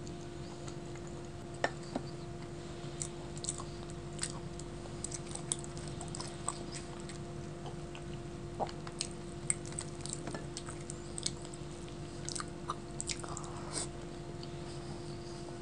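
Close-miked eating sounds: chewing of luchi (puffed fried bread) with chana dal, eaten by hand, heard as many short, irregular wet clicks and smacks. A steady low hum runs underneath.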